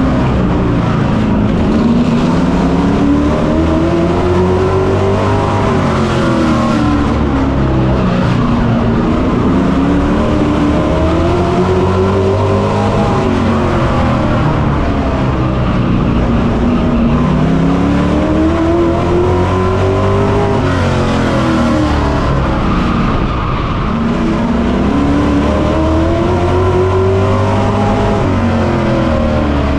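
Race truck engine heard on board at racing speed, revving up along each straightaway and dropping off into each corner, over and over as it laps a short oval.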